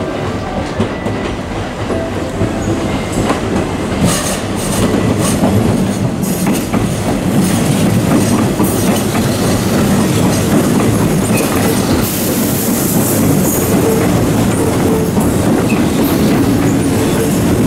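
Hanshin 8000-series electric train coming in over the points and running past close by, its wheels clicking over rail joints with some wheel squeal. It grows louder over the first few seconds, then stays loud and steady.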